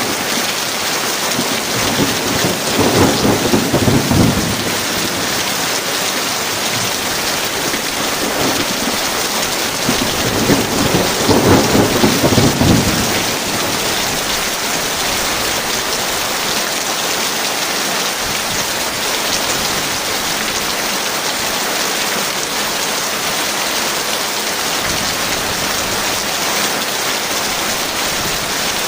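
Heavy rain falling steadily in a thunderstorm, with two rolls of thunder rumbling a few seconds in and again about ten seconds in.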